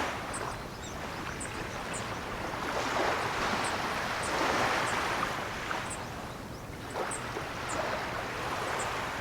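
Ocean waves breaking and washing in, the surf swelling and fading every few seconds.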